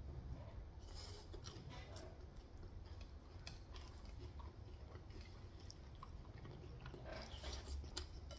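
Faint close-up chewing of Korean fried chicken: wet mouth sounds broken by scattered small clicks and crunches.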